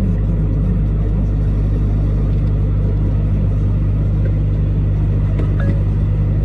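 Truck engine and road noise while driving: a steady, unchanging low drone with no change in pace.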